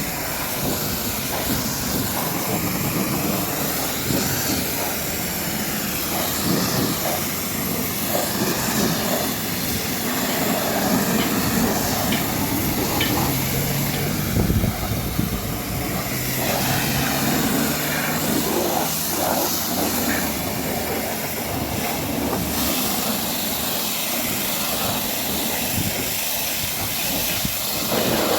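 High-pressure water jet hissing steadily as it is sprayed over a truck during washing.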